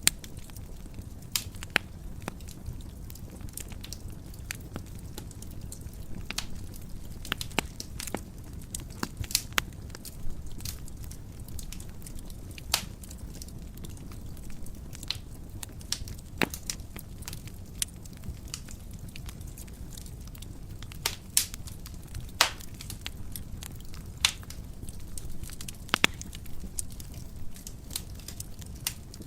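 Wood fire burning in a fireplace: a steady low rumble of the flames with irregular sharp crackles and pops, a few louder snaps scattered throughout.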